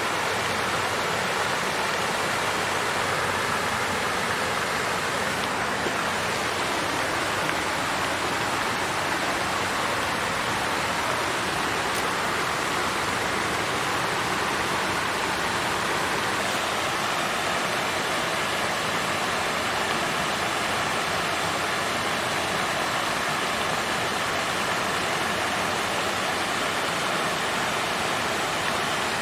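Water fountain's flowing water, a steady even rush of falling and splashing water with no breaks.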